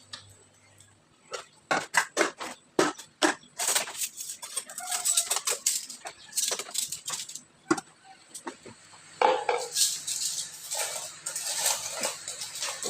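Plates and glasses clinking and clattering as they are handled and set down, a run of irregular sharp knocks.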